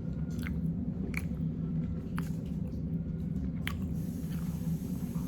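Close-up chewing of food with wet mouth smacks: a few sharp smacking clicks at irregular intervals over soft chewing, with a steady low hum underneath.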